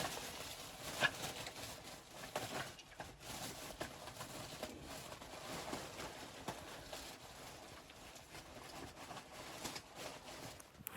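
Irregular soft crunches and knocks over a faint noisy background, a few seconds apart.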